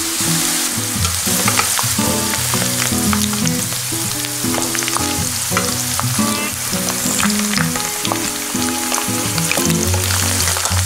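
Whole shrimp and sliced garlic sizzling steadily as they fry in olive oil in a pan, with occasional clicks of metal tongs as the shrimp are turned.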